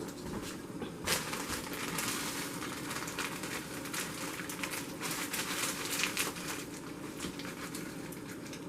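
Crackling and rustling as frozen blueberries are tipped into a pan of cooked hamburger mix, starting abruptly about a second in.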